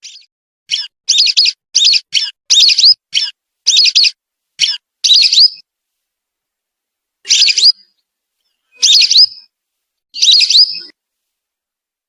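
Whistling duck (belibis) calls used as a lure: a quick run of about nine short whistled notes, a pause of about two seconds, then three longer whistles spaced about a second and a half apart.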